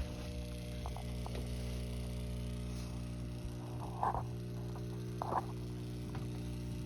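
Steady electrical hum with several evenly spaced tones, with a couple of faint short sounds about four and five seconds in.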